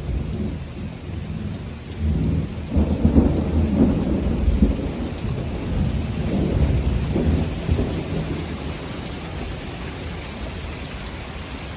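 Thunder rolling low and long over steady heavy rain, swelling about two seconds in and again around six seconds, then dying away. It follows a close lightning strike from a severe thunderstorm.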